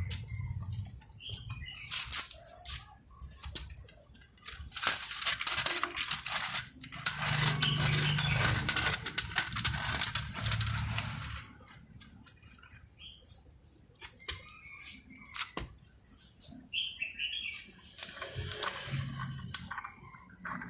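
Small toys being handled and set down, with clicking and rattling that thickens into a dense clatter in the middle and then thins out to scattered clicks.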